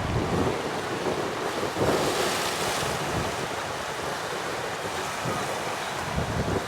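Strong wind buffeting the microphone over waves and choppy water, with a louder rush about two seconds in.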